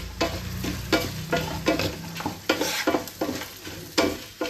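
A knife scraping and digging fresh coconut flesh out of the shell in repeated short strokes, about three a second. A low hum underneath stops about two seconds in.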